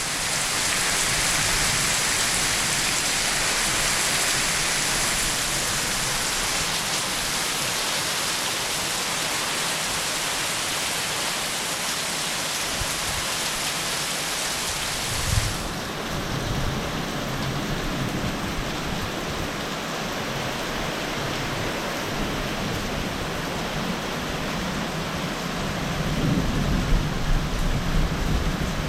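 Heavy rain pouring steadily with a dense hiss. About halfway there is a short thump, after which the hiss is duller, and near the end a low rumble of thunder rises.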